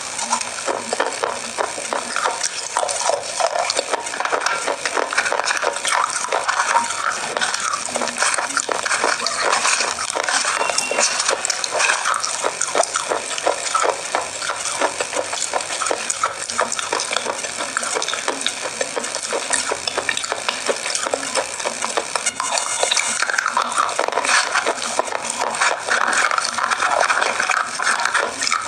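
Close-miked chewing of chocolate: a continuous dense crackle of crunching and wet mouth sounds as pieces of a grooved chocolate bar are bitten and chewed.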